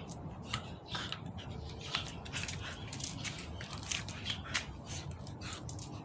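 Dog chewing and mouthing its toy: a run of irregular crunchy clicks and snaps.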